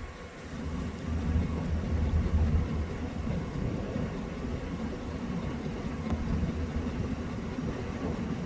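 Low, steady rumble of a car running, a little louder from about a second in.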